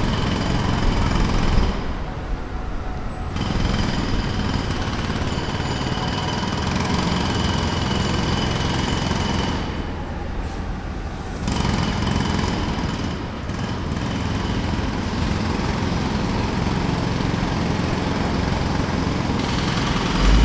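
Jackhammer breaking pavement in rapid continuous bursts, stopping briefly twice, about two seconds in and about ten seconds in. A steady engine hum runs underneath throughout.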